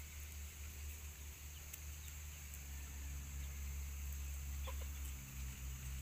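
Chickens clucking faintly over a low steady hum, with one short call near the end.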